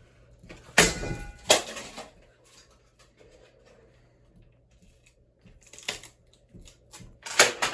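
Ceiling fan parts being handled, giving several sharp knocks and clatters. The first knock leaves a brief metallic ring.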